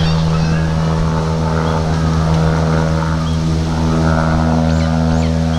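A steady mechanical hum that keeps one pitch, with short bird chirps over it now and then.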